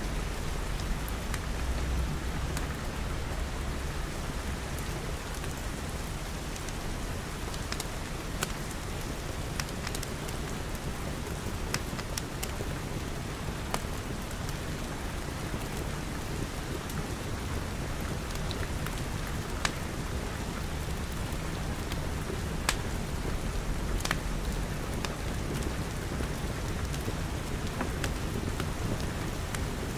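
Steady rain pattering, with scattered sharp clicks and a low rumble in the first few seconds.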